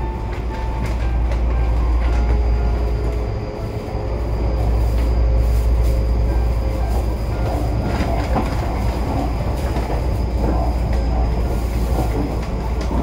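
Tobu Urban Park Line (Noda Line) electric train running, heard from inside the carriage: a steady heavy rumble of the wheels on the track. Occasional clicks and knocks come through, and a faint high whine holds through much of the middle.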